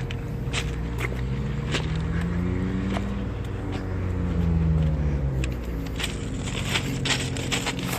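Steady low engine hum with a drone that swells and then falls in pitch through the middle, like a motor vehicle passing, and scattered small clicks and crunches.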